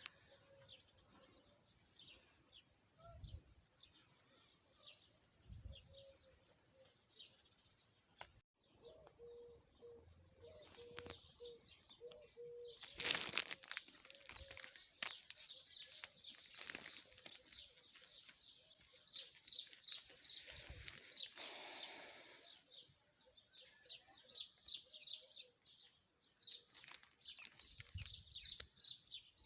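Small birds chirping and twittering repeatedly in quick, high notes, with a couple of louder noisy hisses around the middle.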